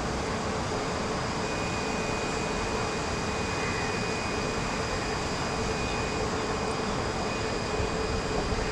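Steady machine drone: an even rushing noise with a constant hum, unchanging throughout.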